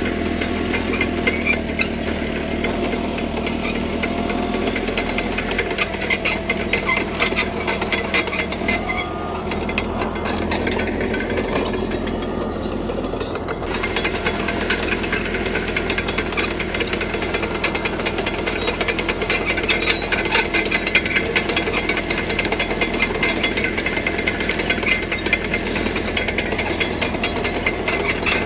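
CAT D3K crawler bulldozer working: its diesel engine running under load with the fast clanking and squeaking of its steel tracks, the engine note shifting a little partway through.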